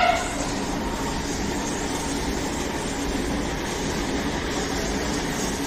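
Steady rumble of a train running through the station.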